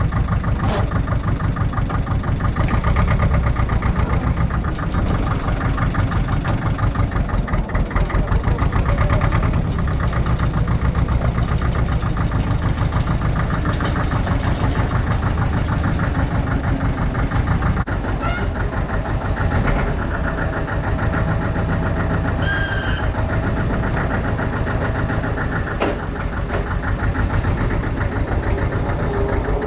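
Allis-Chalmers 5020 compact tractor's diesel engine running steadily, with a brief high squeak about two-thirds of the way through.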